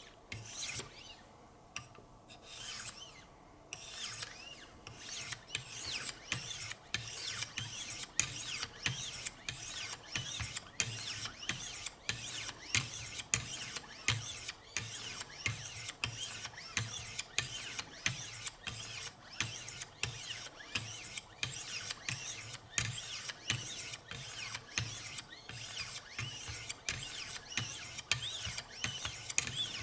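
Wicked Edge 1,500-grit diamond stones stroked along the edge of an S90V steel knife blade: a steady, even rasping scrape of diamond plate on steel, about two strokes a second. The strokes start a few seconds in.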